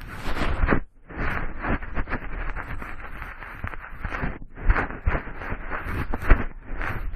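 Cotton swab swirling and rubbing inside the ear of a binaural microphone, a close, scratchy rustling that comes in strokes with short gaps between them and a few dull low thumps.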